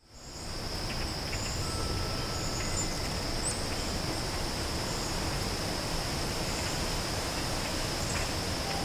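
Outdoor ambience dominated by a steady, high-pitched insect drone, with a few faint, brief bird chirps over it.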